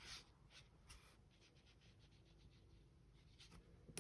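Faint, soft swishes of a watercolour brush stroking a wet wash across paper, a run of short strokes.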